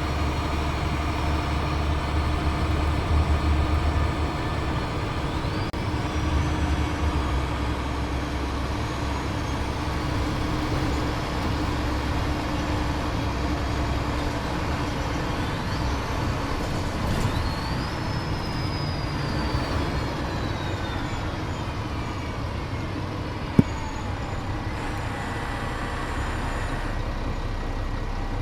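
Cummins ISL diesel engine and Voith DIWA automatic transmission of a 2007 Gillig Advantage transit bus running while under way, heard from on board, with a steady low hum. Midway a high whine rises and then slowly falls in pitch, and there is a single sharp click near the end.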